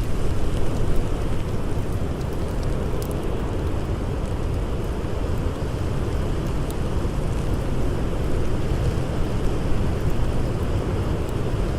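Steady rushing blizzard wind, heaviest in a low rumble, with a few faint crackles from a campfire.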